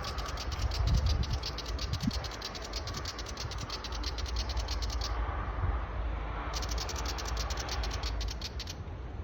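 Willie wagtail giving its rapid scolding chatter, a fast run of sharp dry clicks. It breaks off about five seconds in, then starts again for a couple of seconds before stopping.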